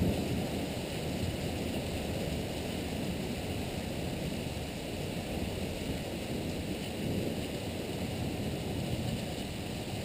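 Heavy thunderstorm rain pouring steadily, a constant rushing hiss, with the tail of a thunder rumble fading away at the very start.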